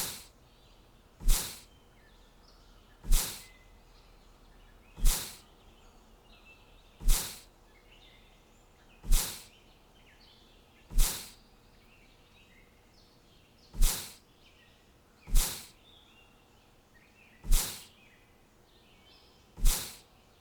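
A whoosh about every two seconds, each swelling and fading within half a second, over faint chirping of small birds.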